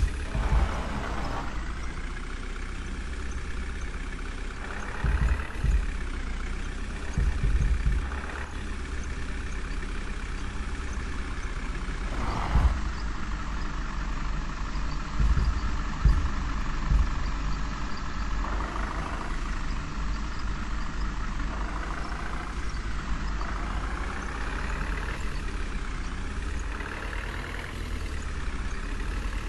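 A heavy truck or crane engine running steadily, with several short thumps and knocks over the engine noise.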